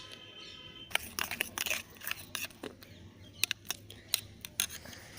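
Irregular sticky clicking and crackling of a sugar-and-shampoo slime mixture being stirred and worked, starting about a second in.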